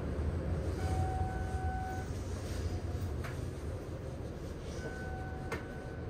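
Steady low rumble heard inside the car of a New Red Arrow electric train. Two steady held tones sound, one lasting about a second just after the start and a shorter one near the end, along with a couple of sharp clicks.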